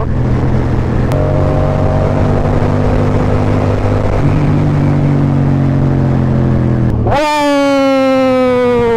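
Yamaha XSR700 parallel-twin engine running on the move, its note stepping between steady pitches a couple of times. About seven seconds in, the engine note jumps sharply higher, then slowly falls.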